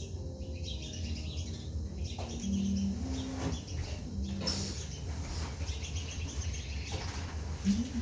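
Garden birds calling around a feeder, a few short low notes over a steady low hum.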